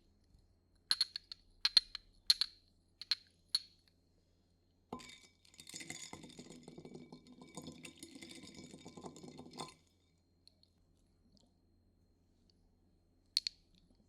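A quick series of sharp clinks, as from hard objects tapped together, then about five seconds of continuous rough noise that stops suddenly, then one more clink near the end.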